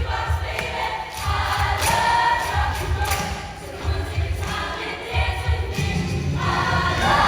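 High school show choir singing a rock number together over loud accompaniment with a pulsing bass beat.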